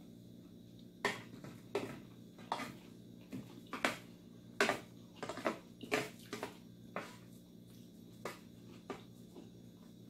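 Close-up eating sounds: about a dozen short wet smacks and clicks of chewing, irregularly spaced, bunched in the middle and thinning out toward the end.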